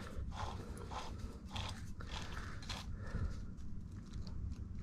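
Scattered light clicks and taps of metal engine parts being handled and worked on during a motorcycle engine teardown, over a low background hum.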